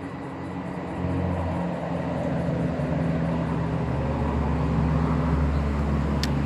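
Road traffic: a motor vehicle's engine hum that grows louder about a second in and stays loud, with a short sharp click near the end.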